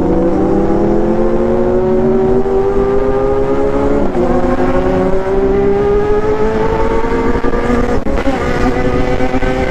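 Motorcycle engine under hard acceleration, its pitch climbing steadily. It dips once about four seconds in at an upshift, then climbs again.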